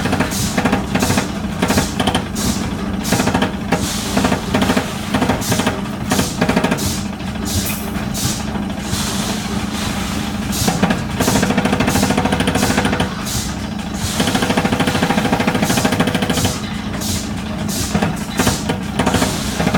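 Stainless-steel mesh end-trimming machine running: a steady motor hum under rapid, repeated chopping strokes.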